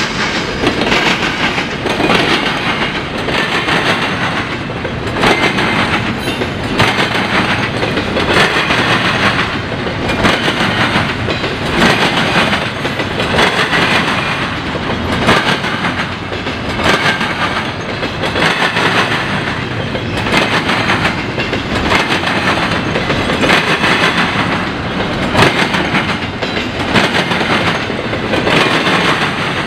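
Canadian National freight cars rolling past, their wheels clattering and banging over the rail crossing diamond in a loud, steady, rhythmic clickety-clack.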